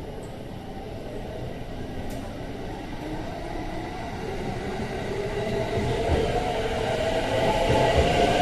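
JR East E233 series 1000 electric train running, growing steadily louder, with a hum of several pitches rising over the rumble.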